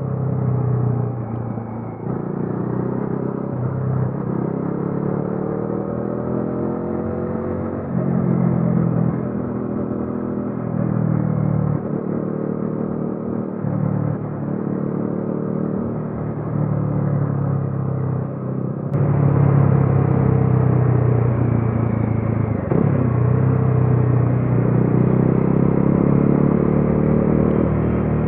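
A Bajaj Dominar 400's single-cylinder engine and exhaust while riding, pulling up through the gears several times, the pitch rising and then dropping back at each shift. It gets louder about two-thirds of the way through.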